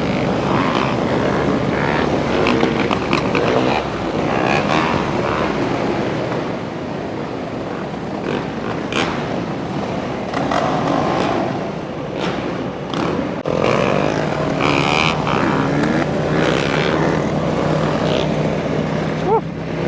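Several motorcycle engines running together, with pitch rising and falling as riders rev and pass.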